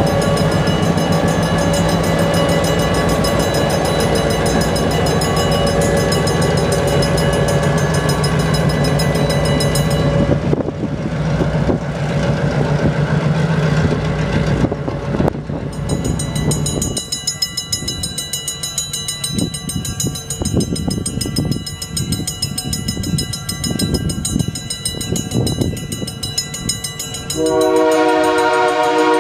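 EMD GP7 diesel locomotive's two-stroke 567 engine running loudly as it passes, followed by the passenger cars' wheels clicking over the rail joints. Near the end, a multi-chime air horn sounds a chord, the locomotive's Leslie K3L horn.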